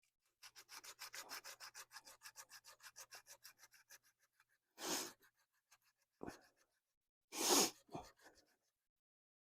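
Hand sanding of rusty metal at the ABS sensor mount on a truck's wheel hub: rapid back-and-forth rubbing strokes, about eight a second, for a few seconds. Then two louder short rushing bursts, each followed by a softer one.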